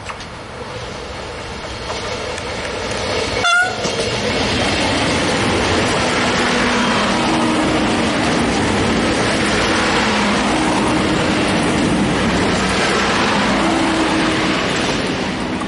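A Siemens Desiro diesel multiple unit passing close by, its noise building over the first few seconds and then holding loud and steady. A brief high pitched blip sounds about three and a half seconds in.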